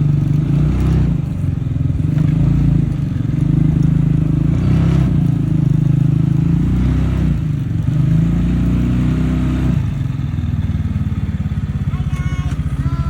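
Small farm vehicle engine running under way, steady at first, its pitch rising briefly before it drops back to a lower idle about ten seconds in.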